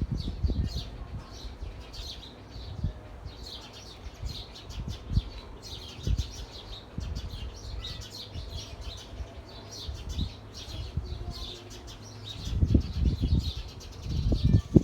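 Many small birds chirping together in quick, overlapping high calls. Low rumbling thumps rise over them at the start and twice near the end.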